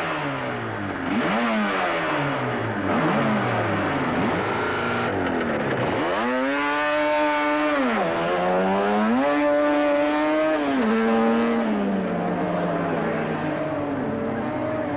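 Racing motorcycle engines revving hard and changing gear, several bikes at once. One engine climbs in pitch about six seconds in, holds high for a couple of seconds and drops away, and another does the same a few seconds later.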